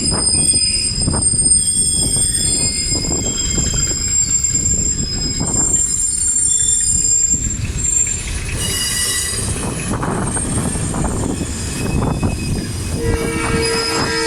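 Train running with a steady rumble while its steel wheels squeal in thin, high-pitched tones through the first half. Near the end the train horn starts sounding.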